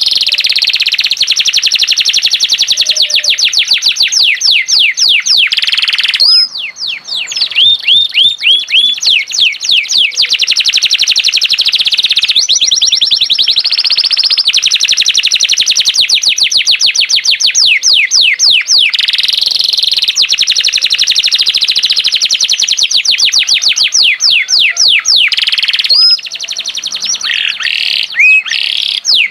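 Domestic canary singing vigorously in long, fast rolling trills of rapidly repeated high notes, with short breaks about six seconds in and near the end.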